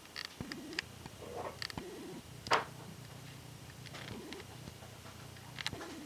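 Low bird cooing repeated a few times, with several short sharp clicks; the loudest click comes about two and a half seconds in.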